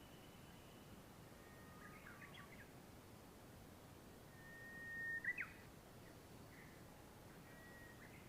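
Faint birdsong over a quiet, steady background hiss: scattered thin whistled notes and short chirps. The loudest is a held whistle that swells and breaks into quick falling chirps about five seconds in.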